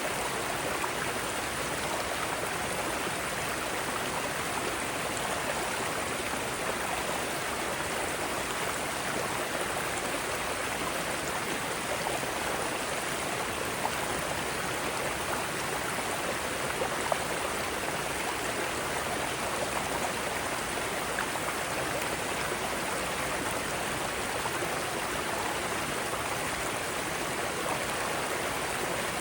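Mountain stream rushing over rocks in small cascades: a steady, even splashing hiss, with a few brief louder splashes.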